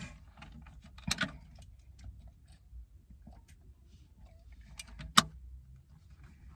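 Scattered light clicks and taps over a low rumble, with a sharper click about a second in and a loud, sharp click about five seconds in.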